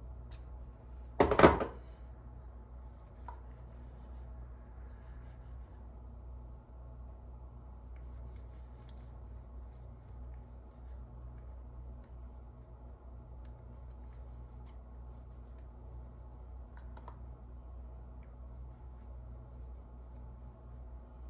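Faint scratching, rubbing and small clicks of hand work with small tools on a camera lens, with one loud clack about a second in, over a steady low hum.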